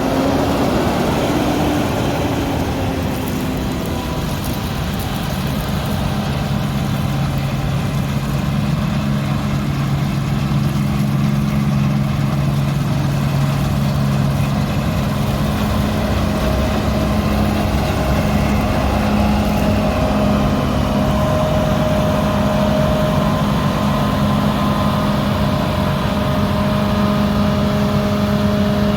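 Combine harvester running in the field at harvest, its heavy diesel engine and threshing machinery giving a continuous loud drone. The engine note shifts slightly a few times as the machine works.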